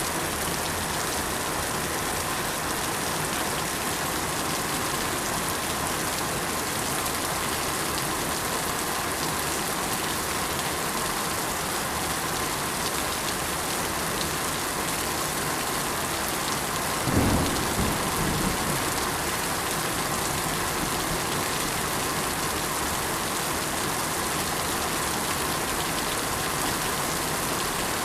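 Steady rain falling, an even hiss throughout, with a brief low rumble of thunder a little past the middle.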